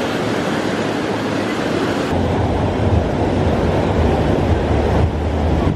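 Steady rushing noise outdoors, with wind buffeting the microphone in a low rumble from about two seconds in.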